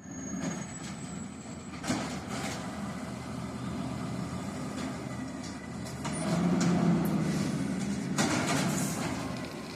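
Garbage truck running, a steady low engine rumble that swells for a couple of seconds in the second half, with a few short hissing bursts.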